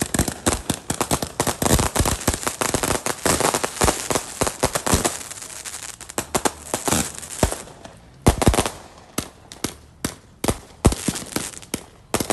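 Ground-launched fireworks firing rapid volleys of sharp cracks and pops. The shots thin out in the second half, with a few louder single bangs.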